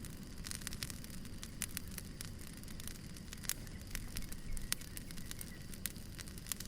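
Wood fire burning: irregular sharp crackles and pops from the burning firewood over a steady low rumble.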